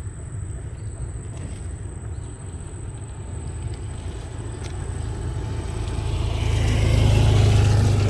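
A motor's low steady rumble that grows louder about six seconds in and peaks near the end.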